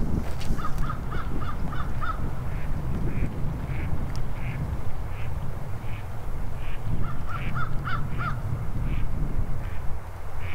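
Birds calling: a run of about six short, quick calls about half a second in, and another about seven seconds in, with single calls scattered between. A steady low rumble runs beneath.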